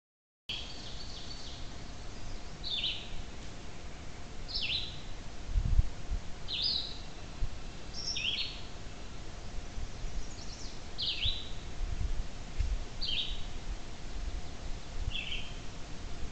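A small bird calling: short, high chirps that slide downward, repeated every second or two. A few low thumps, the loudest about six seconds in, and a faint steady hum underneath.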